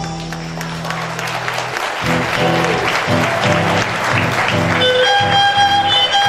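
Audience applauding as a folk piece ends, while a guitar starts strumming the rhythm of the next tune. A fiddle comes in with a melody about five seconds in.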